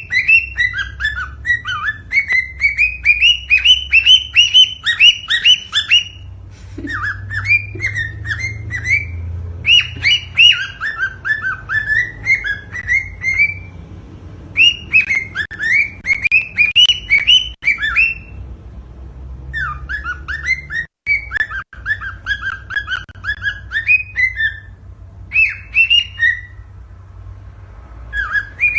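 Cockatiel singing: phrases of quick, whistled chirps that rise and fall, broken by short pauses, over a low background hum.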